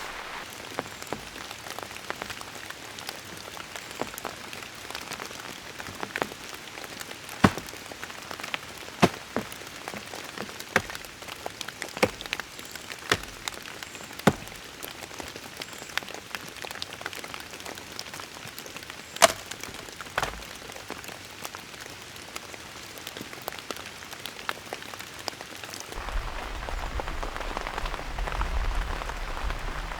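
Steady rain hissing, with scattered single large drops striking a surface in sharp taps. Near the end the rain gets louder and a low rumble joins it.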